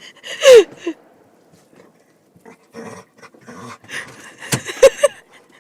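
Excited dog whining: one loud whine falling in pitch about half a second in, then a quick run of short high yips near the end. The dog is eager and impatient, waiting for its owner.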